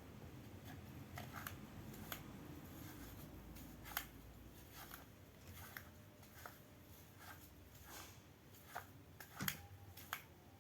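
Faint, scattered clicks and taps from small objects being handled, about a dozen separate ticks, the sharpest about four seconds in and near the end, over a low room hum.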